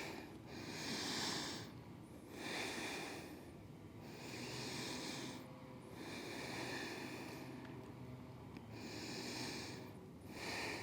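A person breathing audibly and slowly while holding a yoga pose: about six soft, airy breaths, each around a second long, coming every one and a half to two seconds.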